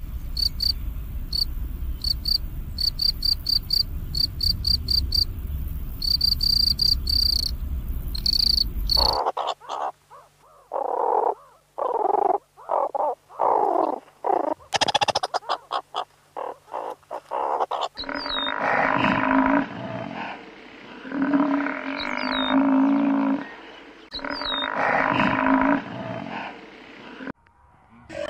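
Field cricket chirping in quick, evenly pulsed trills. After about nine seconds a cut brings meerkats calling in a rapid run of short chirps. In the last stretch come three bursts of other pitched calls, a few seconds apart.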